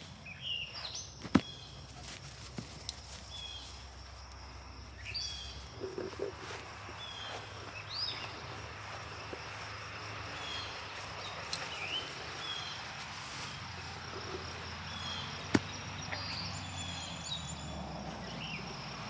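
Outdoor ambience with short, high chirping calls from animals repeating every second or two, two sharp clicks, and a low steady hum underneath.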